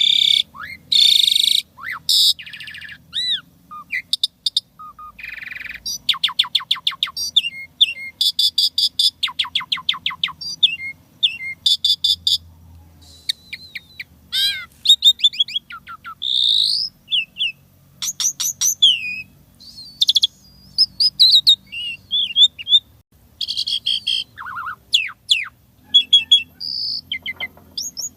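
Asian pied starling (jalak suren) singing a long, varied song of loud whistles, chirps and quick runs of repeated notes, stuffed with borrowed calls of other birds.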